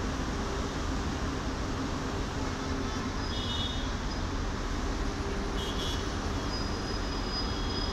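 Steady low rumble and hiss of a diesel-hauled passenger train coming slowly from a distance. A few short high chirps come about three and six seconds in.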